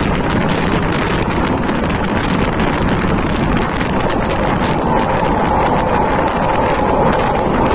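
Wind rushing past the open window of a fast-running train, over the steady rumble of the train on the track. A faint steady whine comes in about five seconds in.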